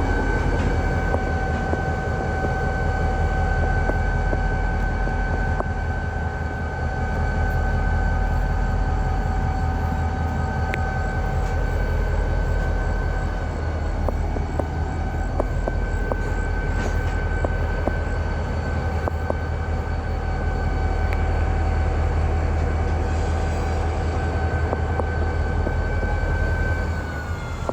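Diesel-electric freight locomotive standing at idle close by: a steady low engine throb under a steady high whine, the whine dropping in pitch near the end.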